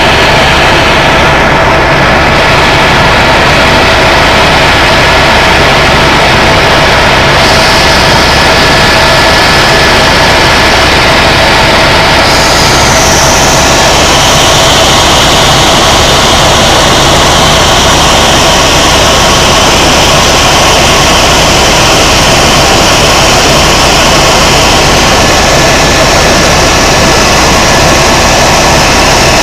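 Tour helicopter's turbine and rotors running in steady flight, a loud, unbroken drone with a few steady whining tones, as heard from inside the cabin. The high hiss brightens about a quarter of the way in and again near the middle.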